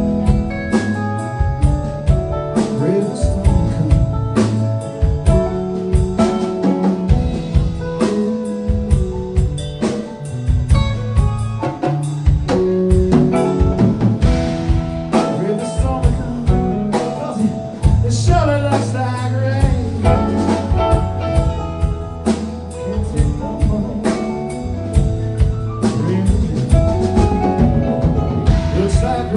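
Rock band playing an instrumental passage: drum kit keeping a steady beat under bass and guitars, with bending guitar notes about two-thirds of the way through.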